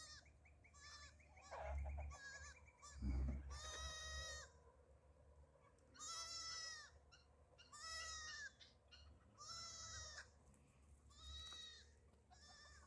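A lamb bleating over and over in short, high-pitched, faint calls, one every second or two: a young lamb separated from its mother and calling for her. A low thump comes about three seconds in.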